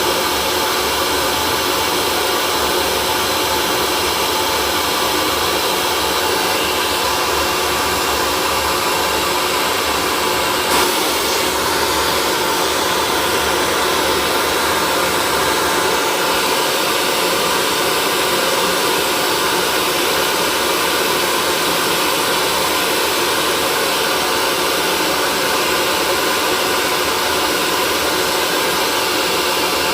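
Hair dryer running steadily: an even, unbroken blowing hiss with a faint motor hum, with one brief click about eleven seconds in.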